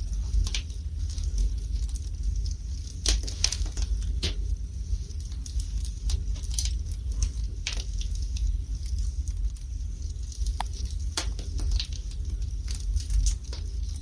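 Wood fire burning in a fireplace: irregular sharp crackles and pops, several a second at times, over a steady low rumble.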